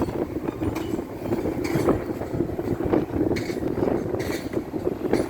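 Trains rolling out of a station, a steady rumble with irregular clatter from the wheels on the track, and wind buffeting the microphone.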